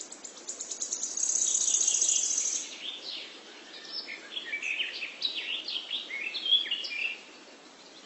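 Small birds singing: a fast, high trill, then a run of short, quickly falling chirps, over a faint hiss.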